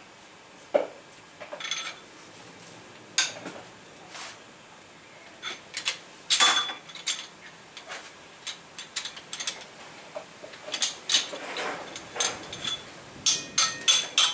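Hand tools clicking and knocking on metal engine parts during teardown work, in irregular sharp strikes with a quick run of clicks near the end.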